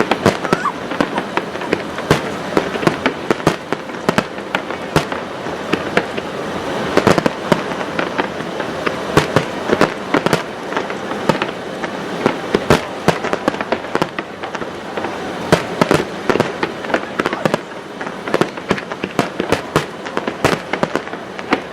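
Aerial fireworks going off: a dense, irregular run of sharp bangs and crackles over a steady din.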